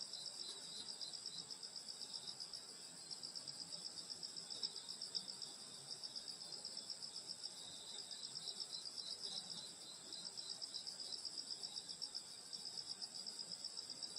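A chorus of summer night grass insects trilling. Several insects sing at once, one a fast high pulsing trill that never stops, another a slower run of chirps beneath it.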